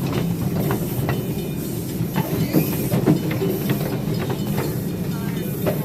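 Riding cars of a live steam train rolling along the track: a steady rumble of wheels on rail, broken by scattered clicks over the rail joints.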